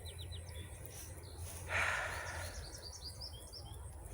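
Songbird chirping, a quick run of high chirps near the end, with a brief rustling hiss about halfway through.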